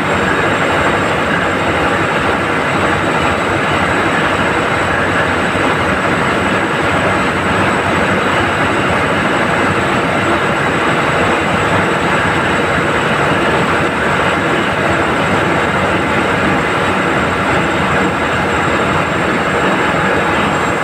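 Ship's diesel engine running in the engine room, a loud, steady mechanical din that holds unchanged throughout.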